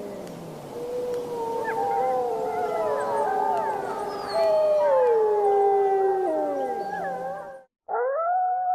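A chorus of wolves howling, several voices overlapping and gliding up and down in pitch. Near the end the sound cuts off abruptly, and a single wolf howl starts, rising quickly and then held steady.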